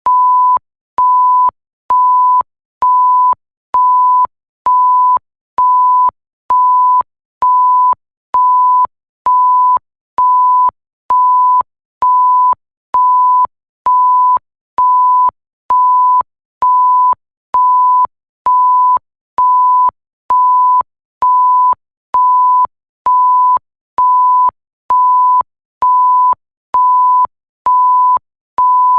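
Electronic bleep: a single pure tone at one fixed pitch, switched on and off in an even rhythm, about half a second on and a short gap off, a little faster than once a second. There is a faint click at the start and end of each beep.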